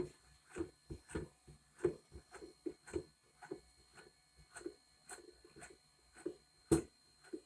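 A vinyl record being hand-washed: irregular short rubbing and knocking strokes, about two or three a second, with one louder knock near the end.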